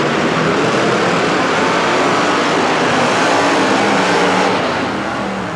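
Monster truck engines running loud in an arena, then easing off about four and a half seconds in.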